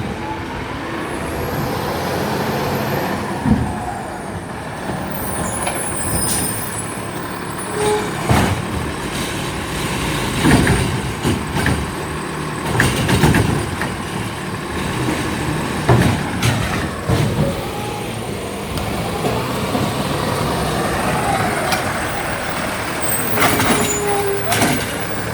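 Garbage truck running, with repeated knocks and clanks and a brief hiss about six seconds in.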